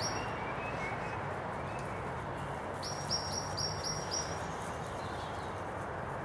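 A small songbird calling: a couple of high notes at the very start, then a quick run of about six short, even notes about three seconds in, over a steady background hiss.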